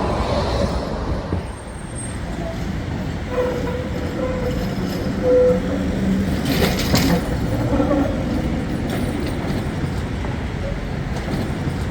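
Zagreb street tram running along city track, a steady low rumble with street traffic around it and a brief burst of noise about six and a half seconds in.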